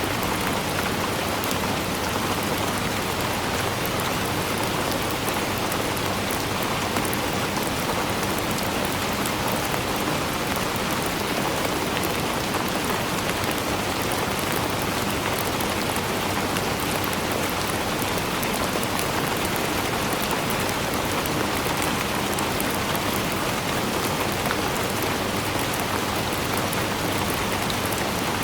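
Steady rain falling, an even hiss of rainfall with many fine drops pattering on surfaces.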